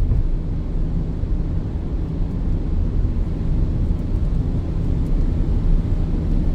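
Steady low drone inside the cabin of a Peugeot 2008 climbing a mountain road: engine and tyres on a rain-wet road, with no sudden sounds.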